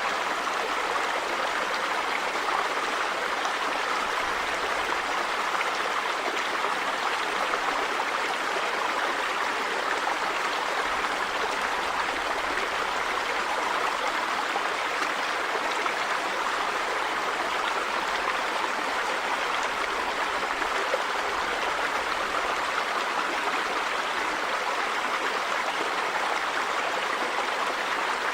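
River water running over rocks: a steady, even rush with no breaks.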